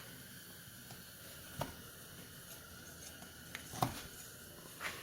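Scattered light clicks and knocks of hand work on a quad's front brake caliper parts, three sharper ones about one and a half, four and five seconds in, the one near four seconds the loudest, over a faint steady hiss.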